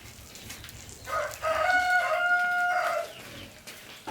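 A rooster crowing once, a single pitched call of about two seconds starting about a second in.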